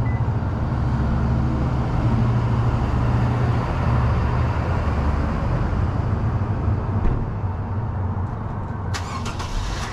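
Steady low hum of a motor vehicle's engine running close by, over street traffic noise, with a few light clicks near the end.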